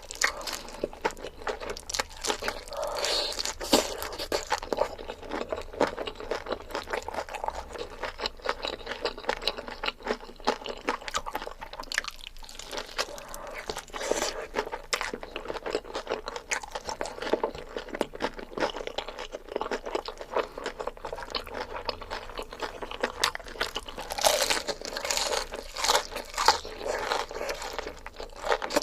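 Close-miked eating: a person chewing large mouthfuls of food, a steady stream of small wet clicks and crunches.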